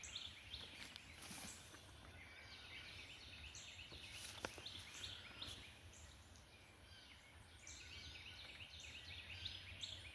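Faint birdsong: many short, falling chirps repeating throughout, over a low steady rumble.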